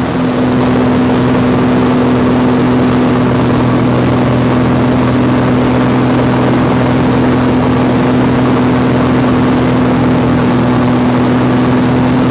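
Small airplane's engine and propeller droning steadily, heard from inside the cabin in flight, with a constant low hum and no change in pitch.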